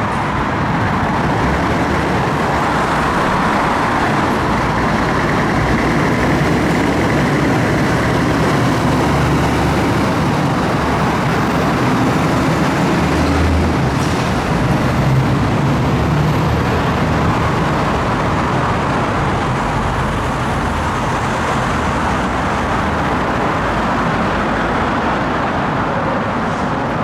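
Steady road noise from motor vehicles: engines running and tyre noise, with a low engine drone.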